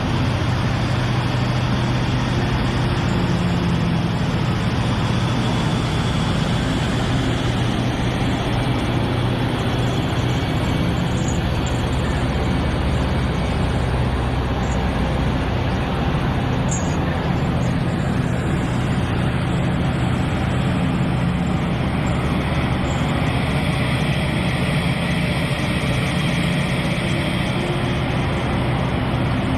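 A heavy engine running steadily at an even pitch, with no break or change in speed.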